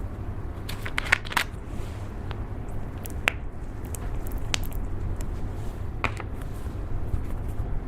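Slime being squeezed and worked by hand, with scattered small pops and clicks over a steady low rumble.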